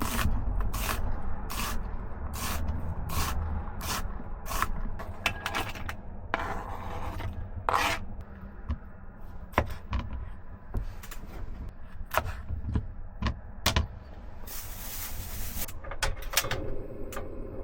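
Knife chopping and scraping on a cutting board: a run of even strokes about two a second, then scattered strokes with two short rustling bursts, over a steady low rumble.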